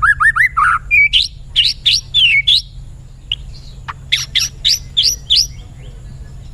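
White-rumped shama singing: rapid runs of whistled notes sliding up and down, in two bursts with a pause of about a second and a half between them. A low steady hum lies underneath.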